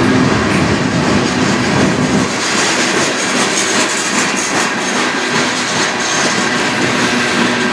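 Freight train tank cars rolling past at speed: a steady rush and rumble of steel wheels on the rails, with a quick run of clicks from the wheels through the middle.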